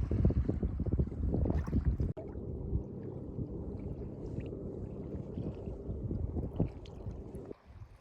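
Wind rumbling on the microphone over water sounds from a kayak out on the water. The sound changes abruptly about two seconds in and again near the end.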